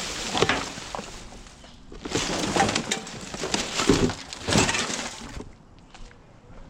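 Hands rummaging through household rubbish: rustling and clattering with sharp clinks, in two bouts, the second starting about two seconds in.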